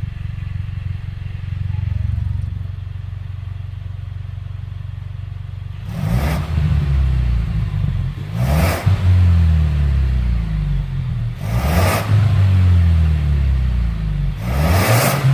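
Ford Mustang 2.3 EcoBoost turbocharged four-cylinder running through an aftermarket valved cat-back exhaust. It idles with a low rumble, then is revved four times from about six seconds in, roughly every three seconds, each rev falling back toward idle.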